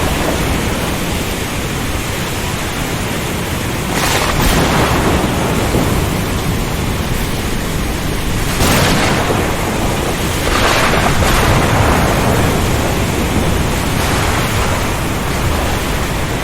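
Ocean storm: a steady roar of heavy rain and strong wind over a low rumble. The noise swells in brief surges about four, nine and eleven seconds in.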